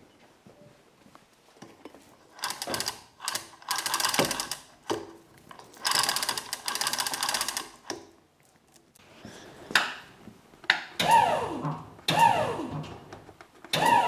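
Mechanical rattling and whirring in two runs of a couple of seconds each, then three short sounds near the end, each falling in pitch.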